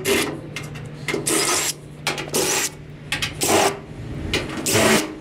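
Irregular bursts of metal scraping and rattling as an air conditioner's sheet-metal casing is worked apart for scrap, over a low steady hum that stops about four seconds in.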